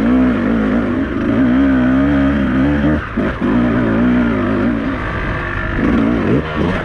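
Beta 200RR two-stroke enduro motorcycle engine revving hard under throttle, its pitch wavering up and down. It briefly drops off about three seconds in and again near five seconds, then picks up again.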